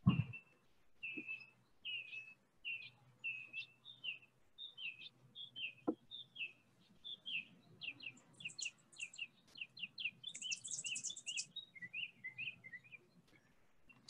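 Songbirds singing: one bird repeats a short whistled note over and over, the notes coming faster as it goes on, while a higher, thin trill comes in twice in the second half. A single knock sounds right at the start.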